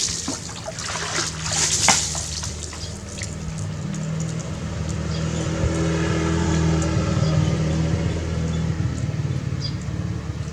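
Water splashing and pouring during a bath, loudest in the first two seconds, over a steady low motor-like hum.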